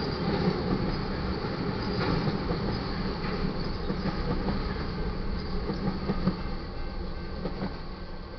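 Loaded freight train cars, crude oil tank cars then a trailing car, rolling past at a grade crossing: a steady rumble with sharp wheel clicks over the rail joints. It fades near the end as the last car clears.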